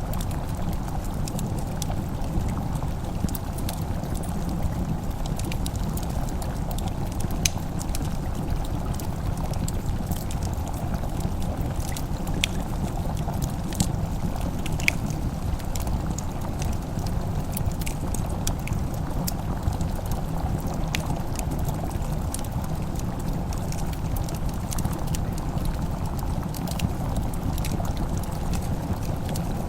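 Wood fire crackling in a fireplace: irregular sharp pops and snaps over a steady low rumbling hiss.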